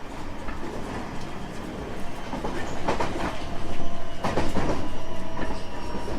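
Running sound of a JR West 225 series 5000 subseries electric train with a Toyo IGBT inverter: a steady low rumble with wheels clattering over rail joints, loudest about four seconds in. Faint steady whining tones come in during the second half.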